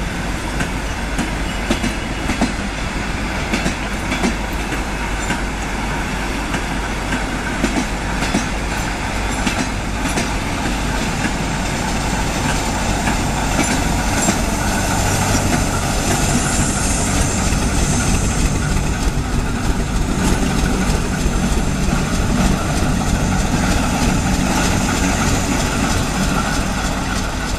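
A ChME3 diesel-electric shunting locomotive moves a rake of passenger coaches slowly along the track, its diesel engine running, with scattered clicks from the wheels. The engine's low hum grows louder from about halfway.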